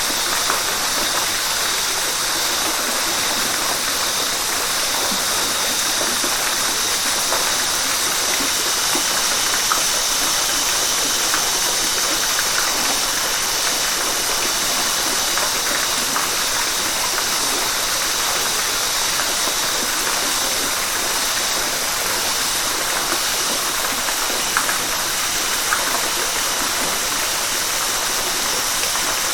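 River water rushing and splashing over rocks in a steady, even flow, with small splashes scattered through it.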